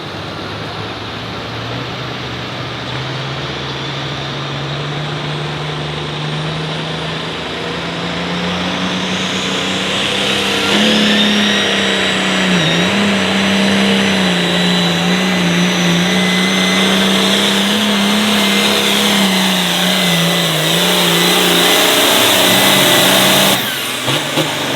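International Harvester 1066 pulling tractor's engine working at full load down the track. Its pitch climbs steadily for about ten seconds, then holds high and wavers, and the engine cuts off abruptly about a second before the end as the throttle is shut at the end of the pull.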